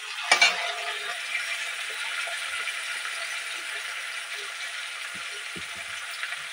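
Onion and capsicum frying in hot oil in a metal kadhai, a steady sizzle just after a spoonful of vinegar has gone in, with two sharp crackles about half a second in.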